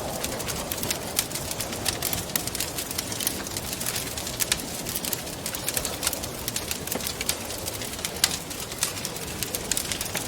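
Wood fire crackling, with frequent sharp pops and snaps, over a soft wind blowing and moaning in the background.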